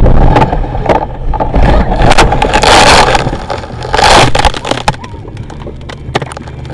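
Car collision: loud crunching and scraping noise in several bursts with sharp knocks, loudest about three and four seconds in, then dying down to a steady low engine hum.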